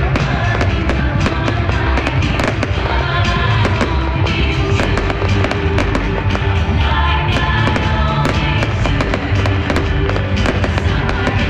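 Aerial fireworks bursting in frequent sharp bangs and crackles, mixed with loud music.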